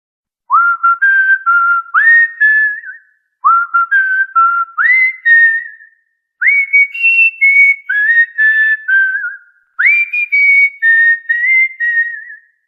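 Cockatiel whistling a short tune four times over, each phrase opening with a quick upward swoop into a few clear held notes, with brief breaks between phrases.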